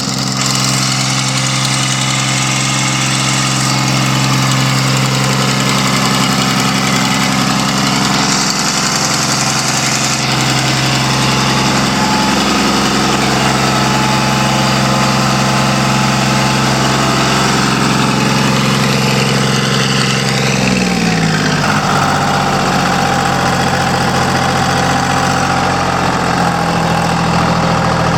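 Hatz 3L40 three-cylinder air-cooled diesel engine running steadily. About twenty seconds in, its speed drops and it settles into a slower, steady run.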